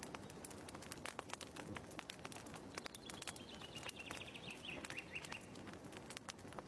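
Wood fire crackling with irregular small pops, and a bird's quick chirping trill, falling slightly in pitch, from about three to five and a half seconds in.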